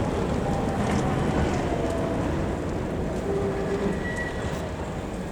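Heritage electric tram running on street track, a steady rumble that slowly fades as it moves away, with a few faint brief squeals and light clicks from the wheels.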